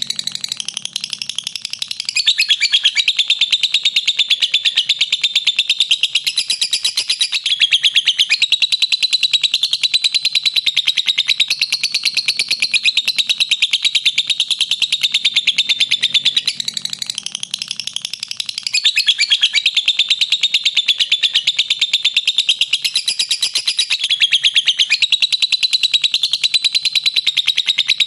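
Lovebird giving its 'ngekek': a long, unbroken run of rapid, shrill chattering notes. It eases briefly twice, near the start and about two thirds of the way through, then runs on.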